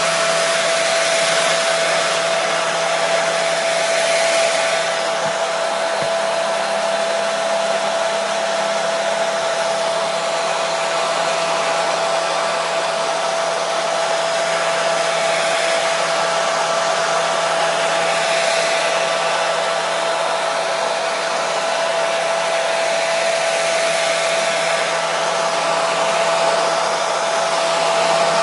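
Hair dryer running steadily: an even, loud rush of air with a constant motor whine, unchanging throughout.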